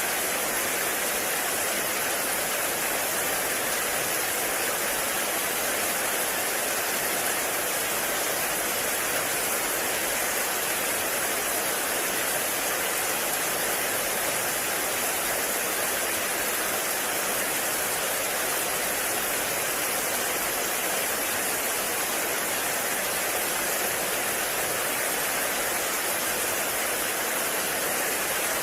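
Heavy rain falling in a forest: a dense, steady hiss with no breaks.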